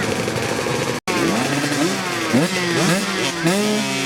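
Motocross bike engines accelerating, their pitch rising and falling back again and again as they rev through the gears. The sound cuts out for an instant about a second in.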